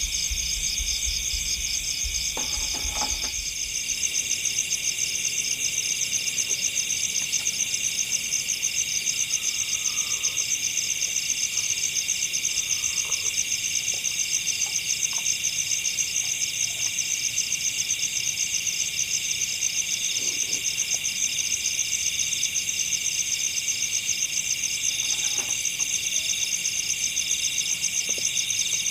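Dense chorus of night insects in the forest, a steady, rapid, high-pitched trill with several voices layered together. A few faint knocks sound about three seconds in and again near the end.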